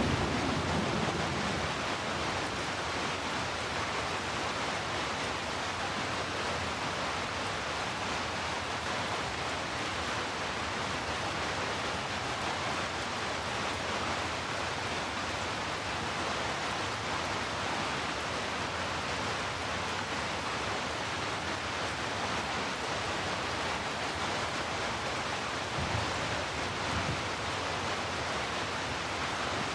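Steady heavy rainfall, an even hiss with a deep low layer. A low rumble fades out in the first second, and a brief low rumble comes near the end.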